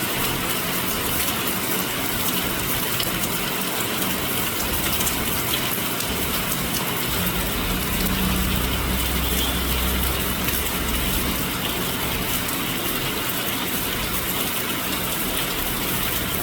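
Heavy rain pouring down in a steady, even hiss. Around the middle a low engine rumble, as of a passing vehicle, rises under the rain and fades again.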